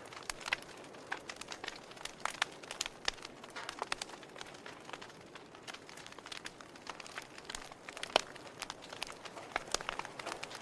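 Wood fire burning in a fireplace, crackling with irregular sharp pops over a low steady hiss; the loudest pop comes about 8 seconds in.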